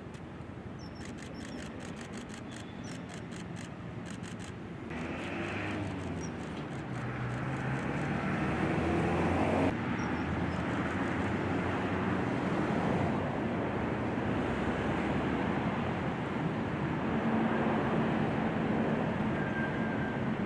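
Distant engine noise: a steady mechanical rumble that grows louder over the first half and then holds, with one tone sliding down in pitch partway through.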